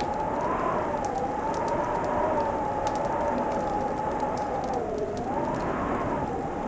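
Crackling fireplace: scattered sharp pops and snaps over a steady hiss, with a wavering whistle-like tone that slowly drifts up and down in pitch, dipping about five seconds in.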